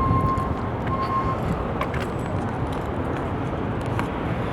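Steady outdoor traffic noise, with a faint high beeping tone that repeats in short pulses and stops about a second and a half in.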